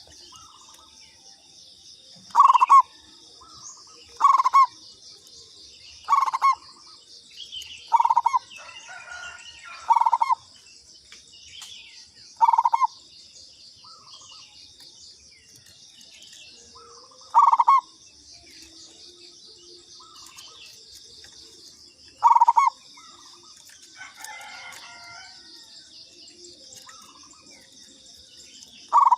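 Zebra dove (perkutut) cooing in short, loud phrases, about nine of them at uneven gaps of two to five seconds. A steady high buzz runs underneath.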